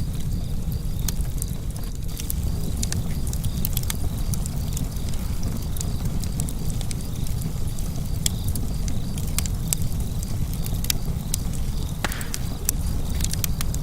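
Fire burning in a fireplace and crackling, with irregular sharp pops and snaps over a steady low rumble of the flames.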